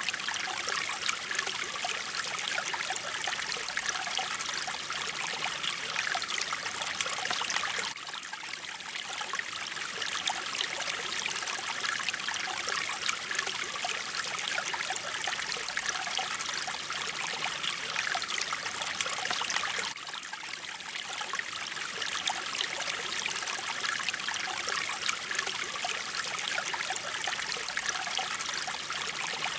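Mountain stream flowing: a steady rush and splash of running water, dipping slightly in level twice.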